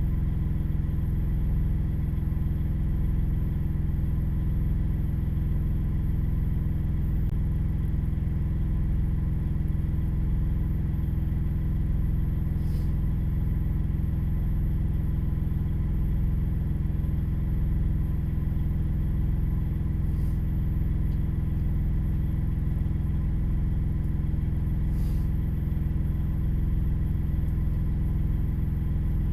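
Vehicle engine idling steadily as a low, unchanging hum, heard from inside the cab, with three faint ticks spread through it.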